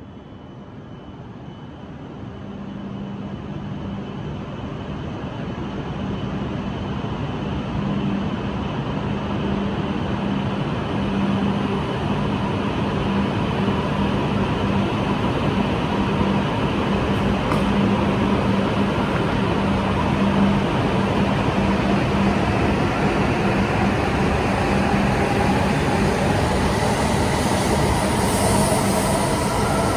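E5 series Shinkansen train pulling out of the station and accelerating. Its running noise builds over the first ten seconds or so and then stays loud, over a steady low hum. Near the end, higher tones rise in pitch as it gathers speed.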